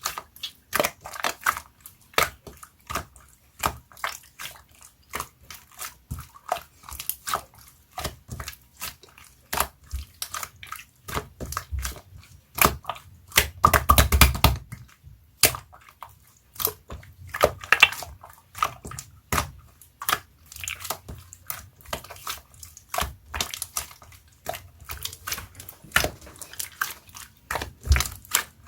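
Hands squishing and working slime, making a fast, irregular run of sharp clicks and pops, with a longer, louder squelching stretch about fourteen seconds in.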